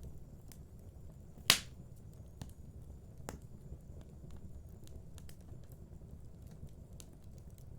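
Wood fire crackling in a fireplace: scattered small crackles over a low steady rumble, with one loud pop about a second and a half in and a smaller pop a couple of seconds later.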